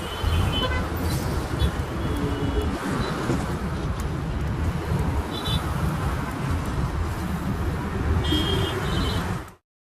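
Steady outdoor traffic ambience: a continuous low rumble of vehicles, with a few short high-pitched sounds near the end, cutting off suddenly just before the end.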